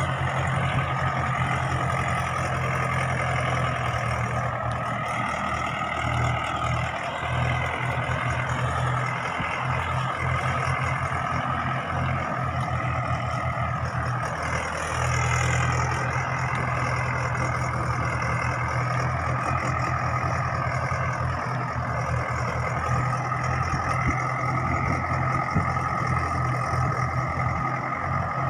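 Mahindra 575 tractor's diesel engine running steadily, its pitch wavering only slightly.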